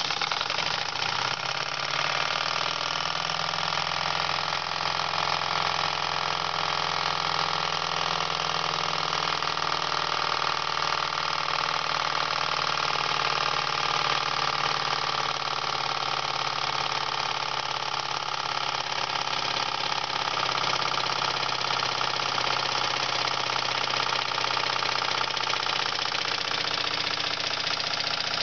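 Jensen No. 5 toy steam engine running steadily while it drives a small generator lighting a bulb: an even, continuous hiss with a steady hum beneath it.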